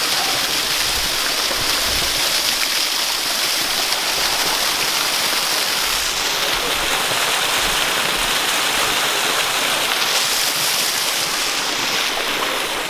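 Small waterfall spilling over rocks: a steady rushing and splashing of water.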